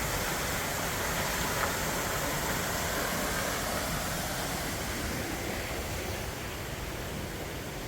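Steady rush of water pouring over Eagle Falls, an even hiss-like wash of sound with no distinct events.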